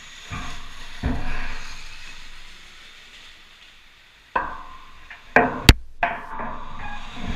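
A run of irregular thumps and knocks, about seven in all, the loudest a sharp crack a little past the middle.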